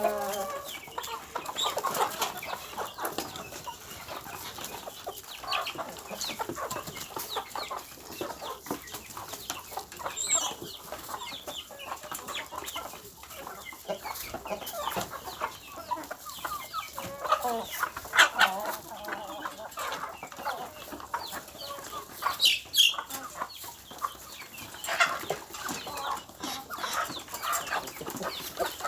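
Chickens clucking, with many short clicks and taps mixed in.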